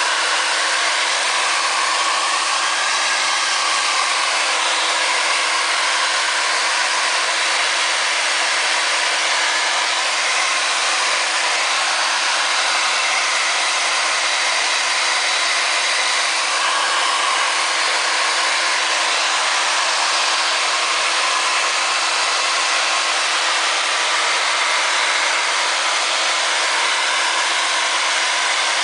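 JMW MCS6002B hair dryer running steadily, a constant rush of blown air with a steady low hum under it.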